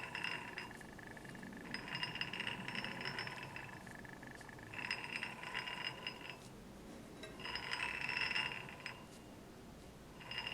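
A metal shaft turned in repeated strokes during a runout check, making four metallic squealing whines, each a little over a second long and about three seconds apart.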